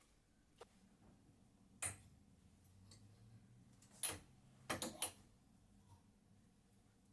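A few sharp light clicks and taps of things being handled and set down during closet organizing, with a quick run of three about five seconds in, over a quiet room.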